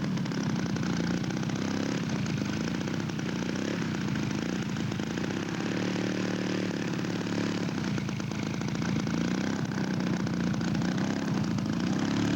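Radio-controlled scale model airplane engine running in flight, its pitch bending up and down as the plane passes, growing a little louder near the end.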